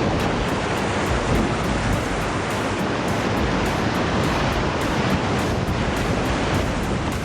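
Rushing river rapids: a steady, loud wash of whitewater noise.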